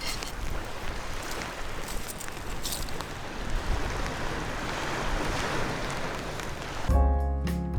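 Steady rushing noise of wind and sea surf. Near the end, music with plucked, guitar-like notes starts abruptly.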